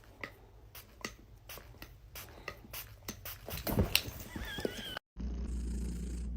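A cat purring close up, a steady low rumble that begins about five seconds in. Before it come scattered light clicks and a brief high call.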